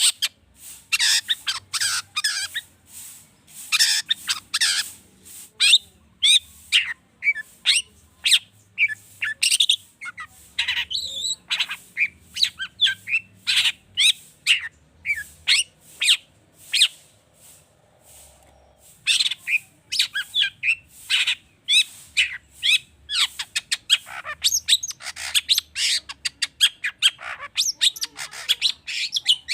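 Long-tailed shrike singing a fast, varied string of sharp chirps, squawks and mimicked calls, with a brief pause a little past halfway.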